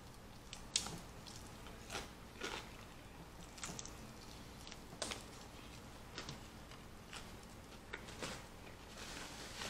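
Fried chicken being bitten and chewed: faint, scattered crisp crunches and mouth sounds, spaced irregularly about a second apart.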